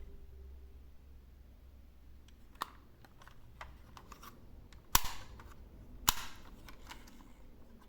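Sharp plastic clicks and clacks from handling small toy garbage trucks. Two loud ones come about five and six seconds in, with a smaller one before them and a few faint ticks between.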